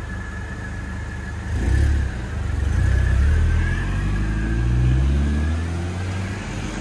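Mercedes-Benz C230 Kompressor's supercharged 1.8-litre engine revving as the car pulls away, climbing in pitch through the gears and then fading as it drives off.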